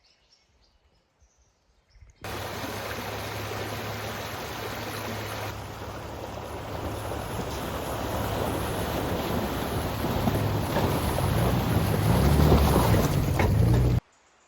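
Rushing creek water, a dense steady wash of noise that starts abruptly about two seconds in, grows louder, and cuts off suddenly near the end.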